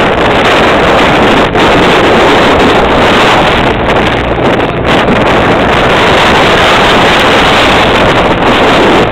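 Motorboat under way, its engine and water rush mixed with loud, steady wind noise on the microphone.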